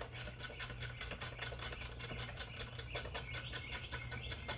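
Hand ratchet clicking rapidly and evenly, about seven clicks a second, as bolts on the truck's engine are turned, over a low steady hum.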